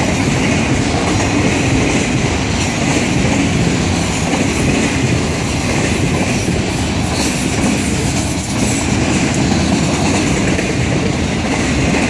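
Freight train's autorack cars rolling past at close range: a steady rumble and clatter of steel wheels on the rails.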